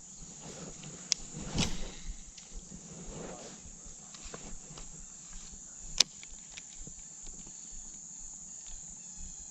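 Steady high-pitched insect chorus, with a few sharp clicks and a brief swish about a second and a half in.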